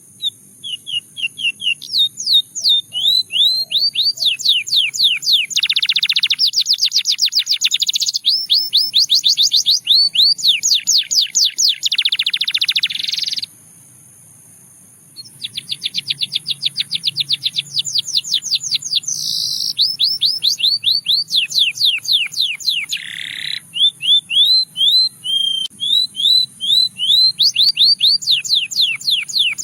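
Russian singing canary singing: long runs of rapidly repeated chirps and rising sweeps, several notes a second, shifting from one note type to the next, with a pause of about two seconds about halfway through.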